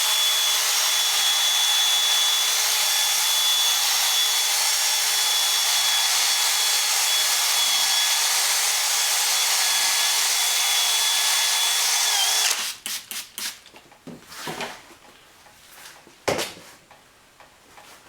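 Handheld power tool sanding a plastic headlight lens with 2000-grit abrasive. Its motor runs steadily with a faint whine and cuts off about twelve seconds in, followed by a few light knocks and clicks of handling.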